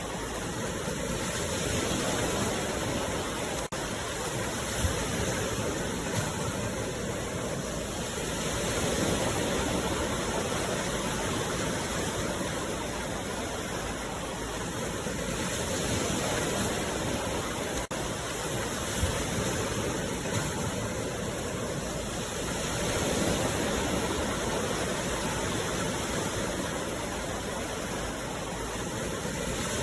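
Sea waves breaking and washing on the shore in a continuous wash, swelling and easing about every seven seconds.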